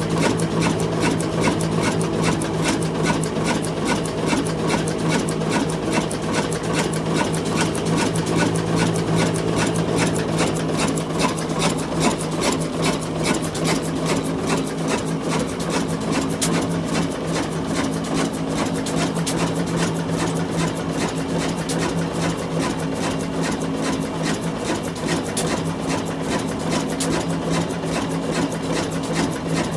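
Old diesel engine of a desi atta (flour mill) machine running steadily with an even, rapid beat.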